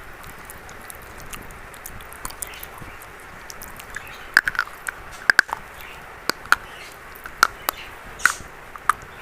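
Dry reddish-brown chalk bitten and crunched: a run of about a dozen sharp, crisp crunches starting about four seconds in, some in quick pairs, over a steady hiss.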